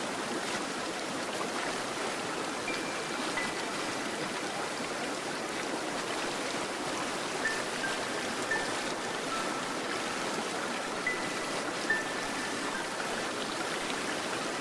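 Flowing stream water, a steady rushing with no change in level. A few faint, brief high chime-like notes sound over it now and then.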